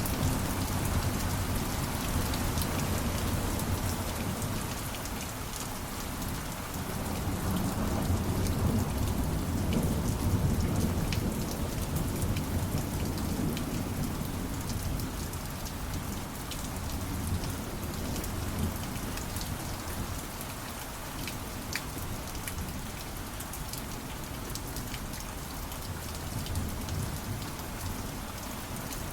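Steady rain falling, with scattered drops ticking close by. A low rumble of thunder swells about seven seconds in and fades over the next several seconds.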